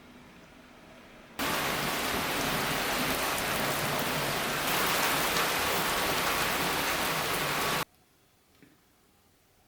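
Steady heavy rain, an even hiss of falling water. It cuts in abruptly about a second and a half in and cuts off sharply near the end, leaving faint room tone.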